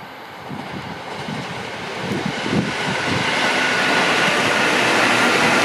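Electric commuter train approaching and passing close on the rails, growing steadily louder. Uneven low rumbling of the wheels comes first, then a rising hiss with a steady high tone as the cars run by.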